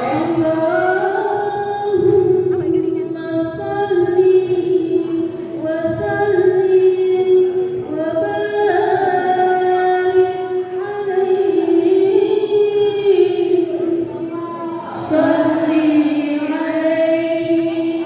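Sholawat, an Islamic devotional song, sung by high voices in long held notes that slide between pitches, with no beat or instrument standing out.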